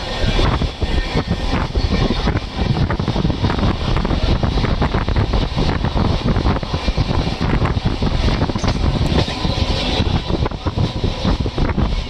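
Express passenger train running at speed, its wheels and carriage rumbling along the track as heard from the moving coach, with wind buffeting the microphone.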